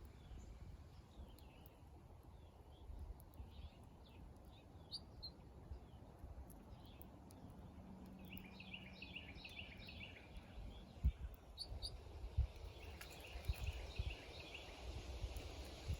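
Small birds chirping and singing, with a quick run of chirps about halfway through and another near the end. Low thumps come in the second half.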